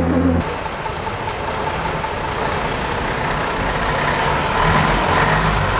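Heavy truck engine running at the start line, growing louder about four to five seconds in as the truck moves off.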